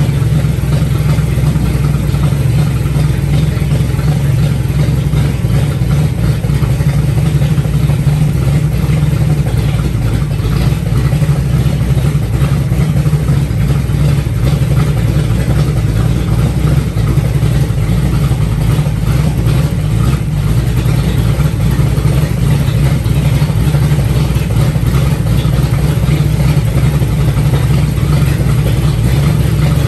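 Newly built 360 stroker V8 running steadily on its first start-up, its engine note unchanged throughout.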